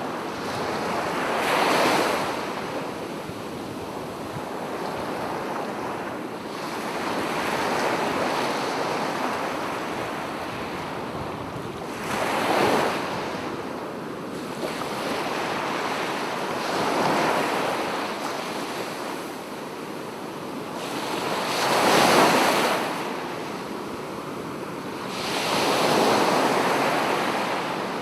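Sea surf breaking on a beach: a steady wash of waves that swells five times at uneven intervals, with the loudest break about three-quarters of the way through.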